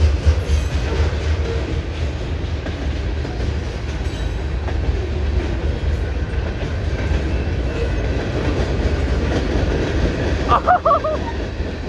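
Freight cars of a CN train rolling past with a steady low rumble and rail noise.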